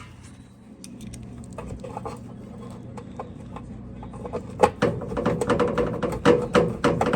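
Clicks, knocks and scraping of the GE dishwasher's control board and its plastic housing being handled and refitted by hand, sparse at first and then a quick run of sharp clicks from about four and a half seconds in.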